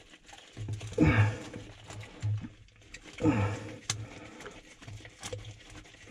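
A man grunting with effort twice, each a short groan falling in pitch, while he tightens a band clamp by hand, with a couple of sharp clicks in between.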